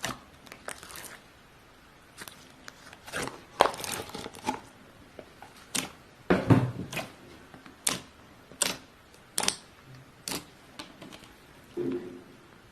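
Slime being squeezed and poked by hand: an irregular string of sticky clicks and pops, with a fuller squelch about six and a half seconds in.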